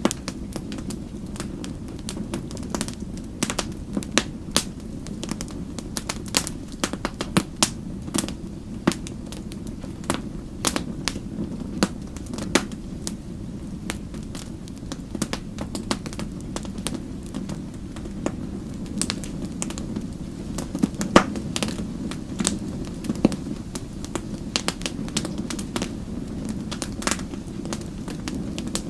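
Wood fire crackling: many sharp, irregular pops and snaps over a steady low rumble of burning.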